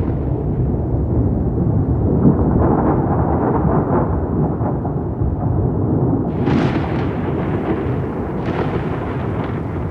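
Thunder rumbling continuously, with sharper crackling peals breaking out about six seconds in and again near the end.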